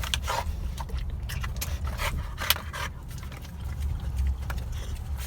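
Dog licking and eating whipped cream out of a small cup, with short wet smacking clicks at irregular moments, the sharpest about two and a half seconds in. A low steady rumble of the car runs underneath.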